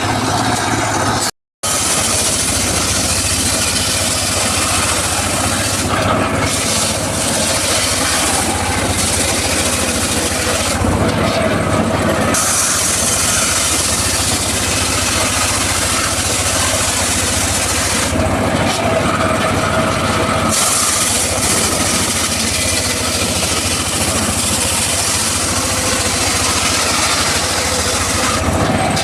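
Mobile circular saw running steadily while it cuts teak wood, a loud continuous din. The sound cuts out briefly about a second and a half in.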